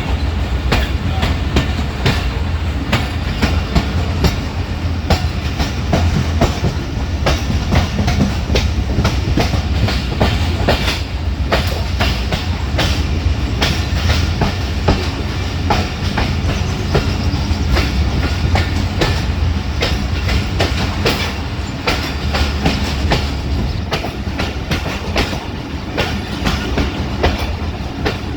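Passenger train running on the rails, its wheels clattering over the track in a dense, continuous clickety-clack over a steady low rumble.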